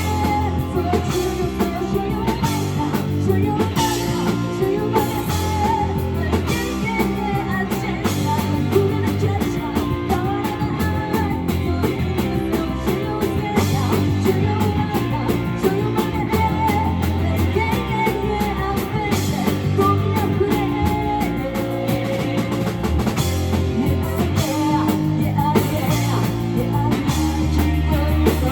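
A live rock band playing a song, with a singer's voice over electric guitar, bass and drum kit.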